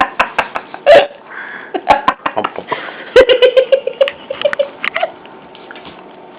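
Dogs licking and smacking at sticky peanut butter: a stream of sharp, wet mouth clicks. About three seconds in comes a quick run of short, pitched huffs that fade over about a second and a half.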